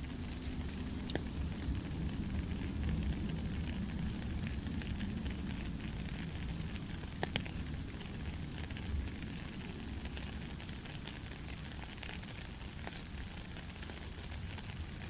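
Steady white-noise hiss for lulling a baby to sleep, heavier in the low end, with a crackly texture and a few faint clicks, the sharpest a double click about seven seconds in.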